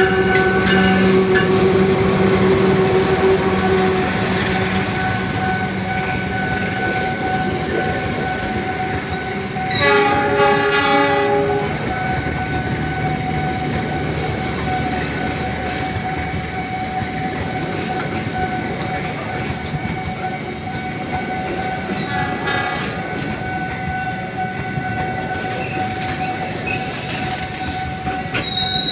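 A diesel-hauled passenger train running at a station, with a steady engine drone and the rumble of wheels on the rails. The train horn blows loudly for nearly two seconds about ten seconds in, and sounds again, shorter and fainter, about twenty-two seconds in.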